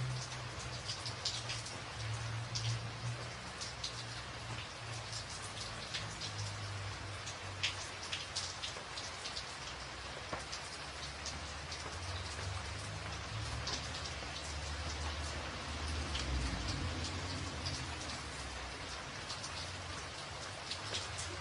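Rain drumming on a tin roof: a steady hiss of rain with many sharp, separate drop strikes on the metal, and a low rumble underneath.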